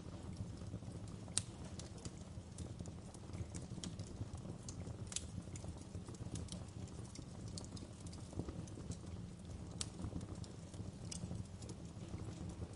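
Wood fire crackling: irregular sharp pops and snaps over a steady low rumble of the flames, with one sharper pop about a second and a half in.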